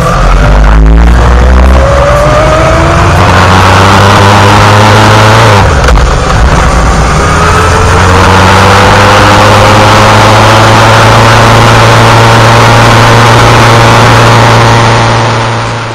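Yamaha XJR1300's air-cooled inline-four engine pulling hard under acceleration, its note climbing, then dropping sharply at a gear change about six seconds in. It climbs again and settles into a steady cruise, over a rush of wind noise, and fades out at the very end.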